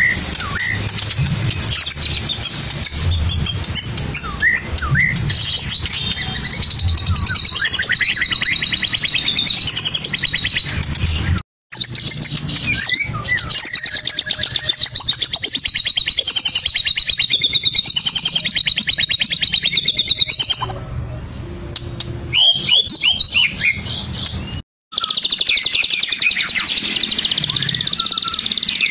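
White-rumped shama (murai batu) singing: a long run of loud, varied whistles and fast chattering trills, broken by two brief dropouts to silence, one about halfway through and one near the end.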